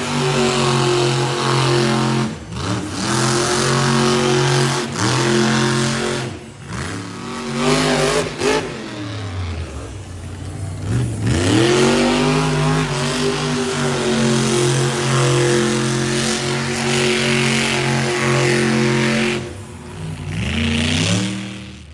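Monster truck engine revving hard, the throttle repeatedly lifting and opening again so the pitch falls and climbs back several times.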